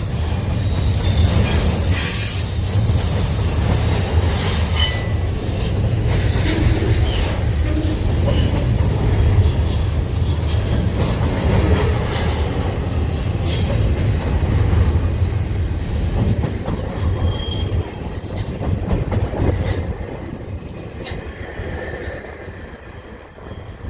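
Union Pacific intermodal freight train's cars rolling past, a steady rumble of wheels on the rails with brief high wheel squeals. It grows quieter over the last few seconds.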